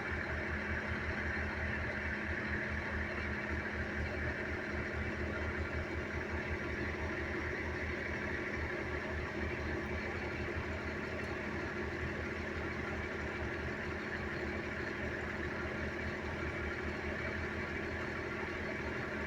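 A vehicle engine idling steadily, with an even low hum and fast pulsing.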